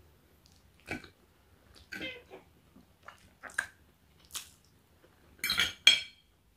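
Close-miked eating sounds: scattered wet mouth smacks while chewing a roast dinner, with a couple of louder, sharper clicks near the end.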